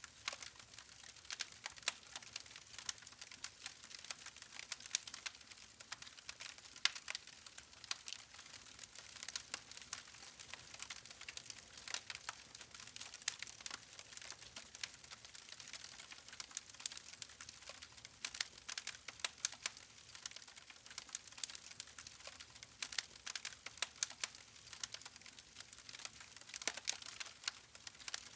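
Wood campfire crackling: irregular sharp snaps and pops from the burning logs over a soft steady hiss of the flames.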